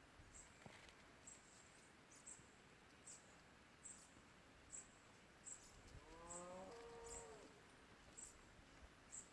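Faint high chirps repeating about every 0.8 s, with one drawn-out animal call that bends in pitch about six seconds in.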